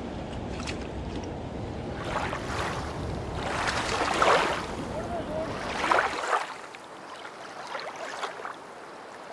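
Water splashing in three bursts over a steady low rushing noise; the rushing drops out suddenly about six seconds in.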